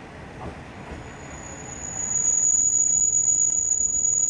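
Diesel railcar rumbling as it pulls into the platform. About two seconds in, a loud, steady high-pitched squeal sets in as it slows.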